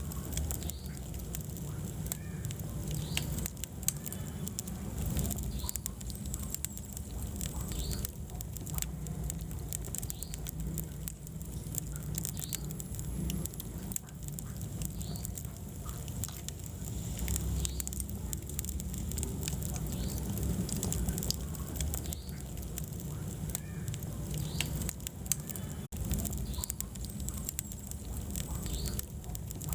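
Wood fire burning in a fireplace: many small, irregular crackles and pops over a steady low rumble of flames.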